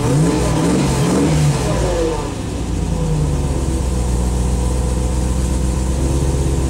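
Range Rover V8 with an Edelbrock carburettor and Magnaflow exhaust, freshly started, revved in a few quick throttle blips, then settling into a steady idle about two seconds in.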